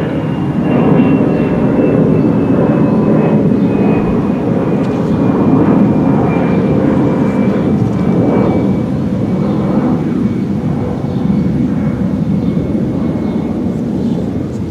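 Jet airliner climbing out after takeoff: a loud, deep rumble with a whine that slowly falls in pitch as it passes.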